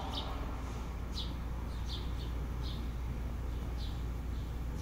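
Small birds chirping: short, high, falling chirps repeating about one or two times a second over a steady low hum.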